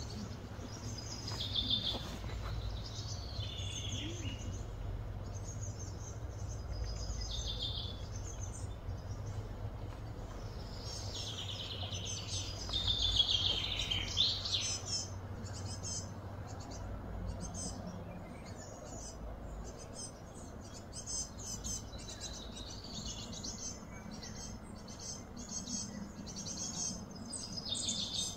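Birds chirping and calling with many short, high chirps and quick rising and falling notes, over a steady low background rumble.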